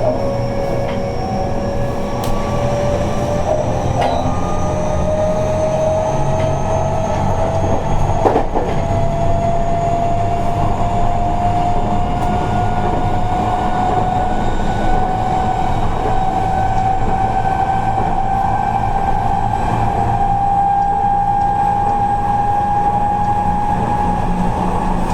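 Running sound inside a Seibu 30000 series electric train: the traction motor whine rises slowly and steadily in pitch as the train gathers speed, over a steady rumble of wheels on rail. A single knock comes from the track about 8 seconds in.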